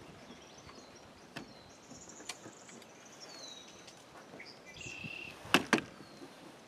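Birds calling with thin, high, sliding whistles, then two sharp knocks close together near the end as gear knocks against the kayak. A few faint clicks of handling come in between.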